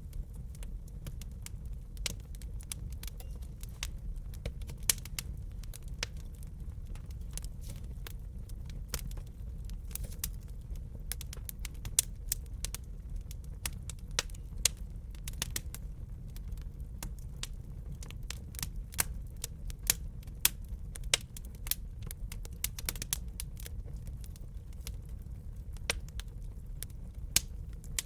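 Wood fire crackling in a fireplace: irregular sharp pops and snaps, sometimes several a second, over a steady low rumble.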